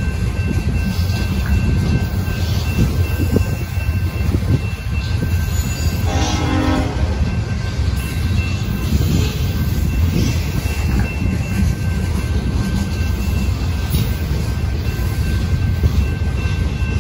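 Freight train cars rolling past close by, a steady low rumble of steel wheels on rail. About six seconds in, a short pitched tone like a train horn sounds over the rumble.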